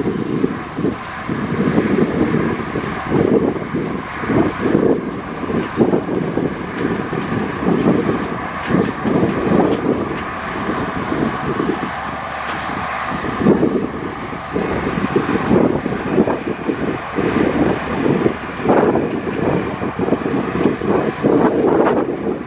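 Heavy diesel earthmoving machinery running continuously, the engine note rising and falling under load.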